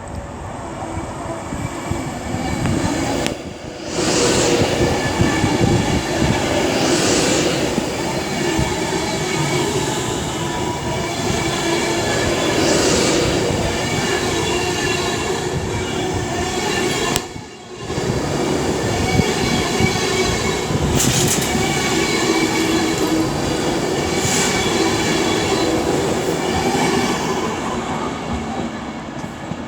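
Class 390 Pendolino electric train pulling out of the station, with a steady electric hum and wheels squealing several times on the curves and pointwork.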